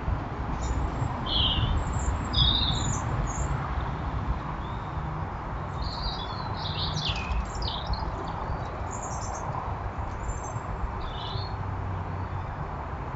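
Small garden birds chirping in short scattered bursts, busiest about a second in and again around the middle, over a steady low background rumble.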